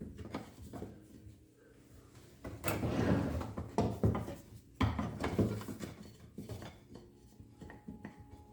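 Knocks and clatter of wooden pieces and tools being handled, with a louder run of clattering and rubbing in the middle.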